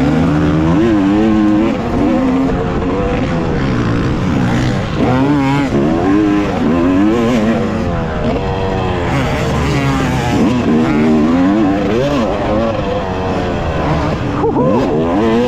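Two-stroke 250 dirt bike engine, a 2018 Yamaha YZ250X, being ridden hard on a motocross track, its pitch rising and falling again and again as the throttle is opened and chopped.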